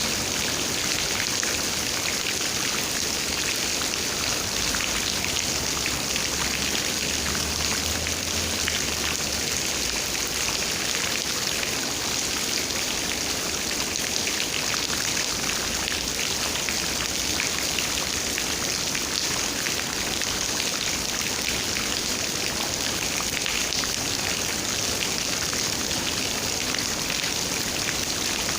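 Steady rain, a dense, even patter of raindrops.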